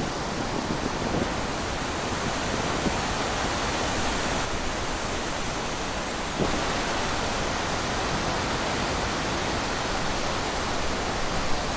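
Wind blowing steadily through trees, an even rushing hiss.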